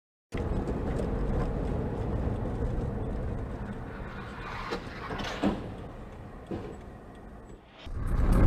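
Car driving, heard through a dashcam: a steady low road and engine rumble that starts abruptly and slowly fades, with a few short knocks about five seconds in.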